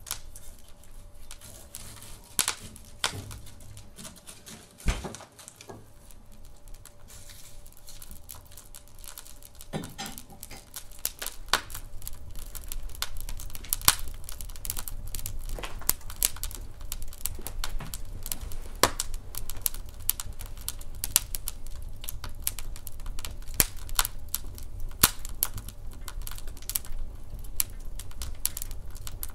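Wood fire in a fireplace crackling, with many irregular sharp pops and snaps. A low rumble of the burning fire grows louder about a third of the way through.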